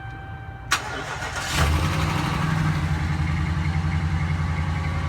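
Dodge Ram pickup engine starting: a click, then the engine catches about a second and a half in with a bad knock right at start-up, and settles into a steady, evenly pulsing idle. The owner complains of the knock, which Chrysler tells him is normal.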